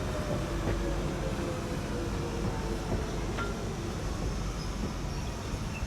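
London Underground train pulling into the platform, a steady rumble with a faint whine that falls in pitch as it slows.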